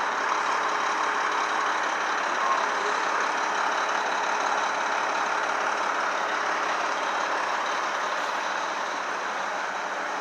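A truck engine idling steadily, with no starts, stops or revving.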